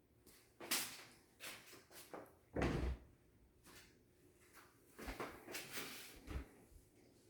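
A series of quiet knocks and bumps in a small room, the loudest a deep thud about two and a half seconds in, with a cluster of smaller knocks around five to six and a half seconds in.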